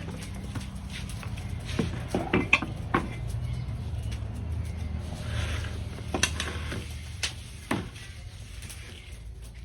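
Kitchen utensils knocking and clinking during food preparation: about seven sharp, irregular knocks, clustered in the first three seconds and again in the middle, over a low steady hum.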